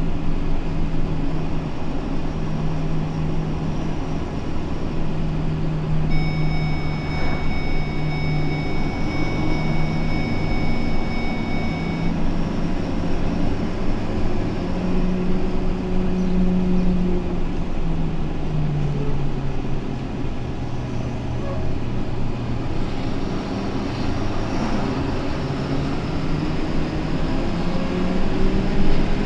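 Vehicle engine and road noise heard from inside the cab, a steady hum whose pitch sinks a little past the middle and rises again near the end as speed changes. A thin high whine is heard for several seconds in the first half.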